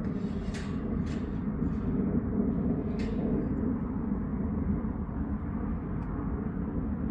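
A farm machine's engine running steadily with a low rumble, with a few light rattles or clicks over it.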